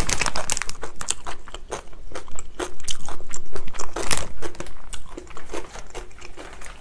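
Close-miked eating: crunchy bites and chewing, a dense run of sharp clicks, busiest in the first second and again about four seconds in, then thinning out.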